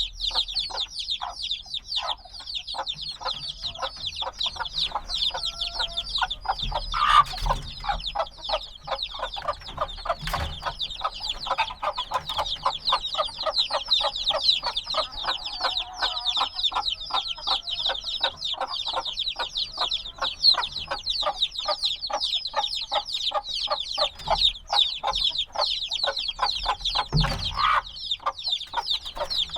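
A brood of chicks a few days old peeping nonstop: many rapid, high, downward-sliding peeps overlapping each other, with a few brief thumps.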